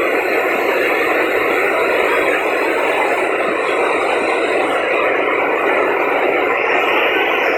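Waterfall: water falling and pouring in a loud, steady rush.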